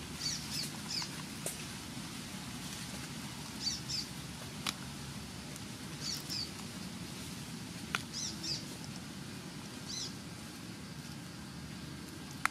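A bird calling repeatedly in short high chirps, usually two or three together, every couple of seconds. A few sharp clicks come from hands picking mushrooms in the dry leaf litter.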